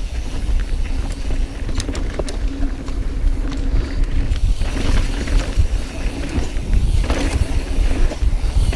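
Mountain bike rolling down a dirt trail, heard on an action camera: steady wind rumble on the microphone over tyre noise, with scattered clicks and rattles from the bike.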